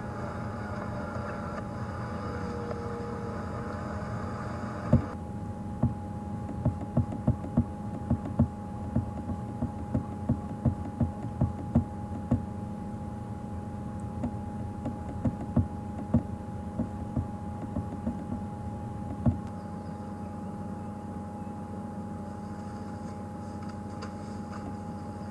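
Game-drive vehicle engine running steadily, with a run of sharp, irregular knocks from about five seconds in until near the end. Insects or birds chirp during the first few seconds.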